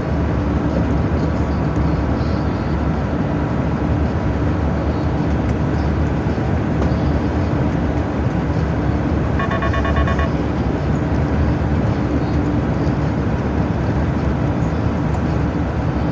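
Heavy truck driving: steady engine drone and road noise. About nine seconds in, a short burst of rapid electronic beeping sounds for about a second.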